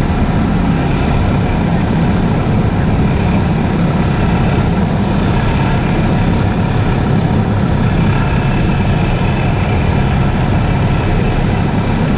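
A Cessna 172's piston engine and propeller run steadily, a constant low drone under a wash of rushing air noise.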